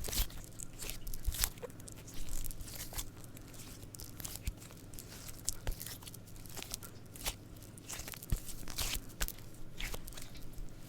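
Pink glitter cube squishy being squeezed and handled close to the microphone, giving irregular crunchy, crackling clicks.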